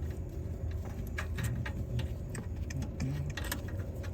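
Irregular sharp metallic clicks and clinks of hand tools working on the exhaust clamp and nut under a VW bus, over a steady low hum.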